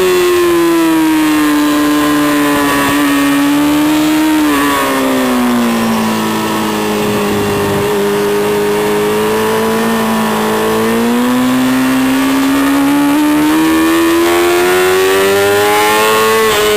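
Racing motorcycle engine heard from on board: revs fall as the bike slows into a corner, with a gear change about four seconds in, hold low and steady through the lean, then climb steadily under throttle on the exit, with a quick upshift near the end.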